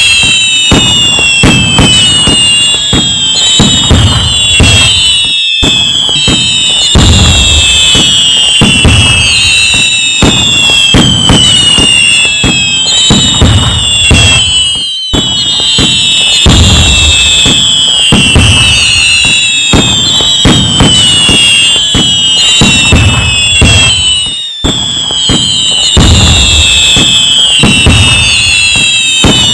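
Fireworks going off without pause: many overlapping whistling rockets, each whistle falling in pitch, over loud bangs and crackling booms. The sound cuts out for an instant about every nine to ten seconds, as if looped.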